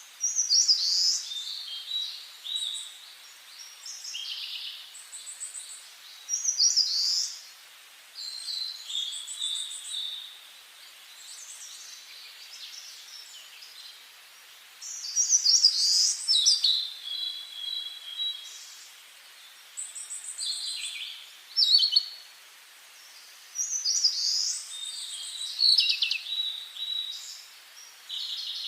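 Songbirds singing: short phrases of high whistles, trills and chirps, one every two or three seconds, with brief pauses between, over a faint steady hiss.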